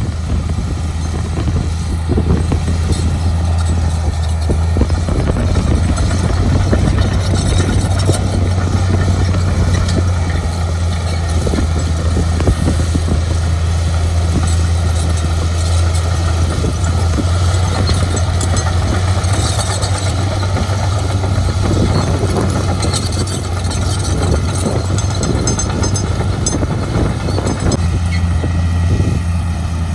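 Heavy construction machinery's engine running steadily with a constant low drone.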